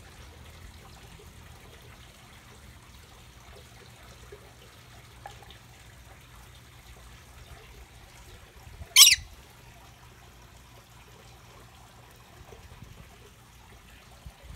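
A pet bird gives one short, loud, harsh squawk about nine seconds in, over a faint low steady hum.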